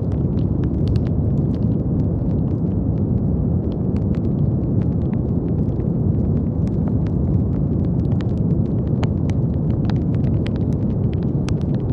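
Brown noise: a steady, deep, even rumble of noise with no tone or rhythm. Faint scattered crackling clicks lie over it.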